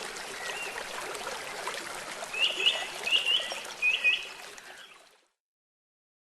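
Running water with birds chirping over it: three quick groups of bright chirps a little past halfway, louder than the water. The sound then fades out and stops about five seconds in.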